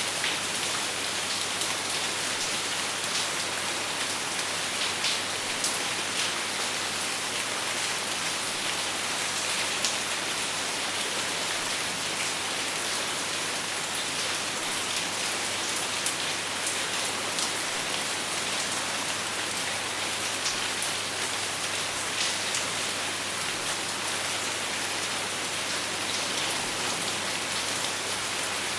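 Steady rain falling, with scattered sharper drop hits and no thunder.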